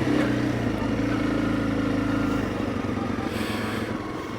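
Honda CRF300 Rally's single-cylinder four-stroke engine running at low revs on a dirt track. The note turns quieter about halfway through.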